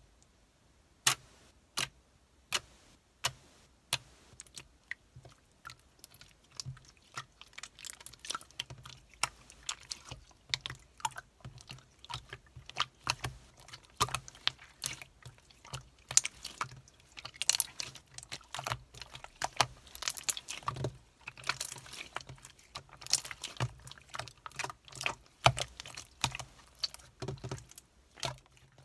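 Marbled slime being squeezed and stretched by hand, giving sharp popping clicks. The clicks come about once a second at first and grow into a dense, irregular crackle from about six seconds in.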